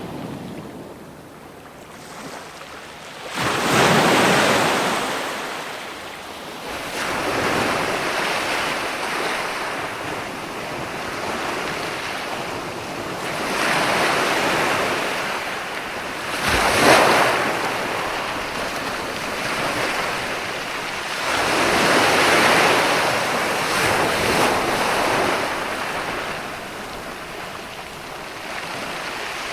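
Ocean waves breaking on a shore, the rush of surf swelling and fading every few seconds, with a sharper, louder crash about seventeen seconds in.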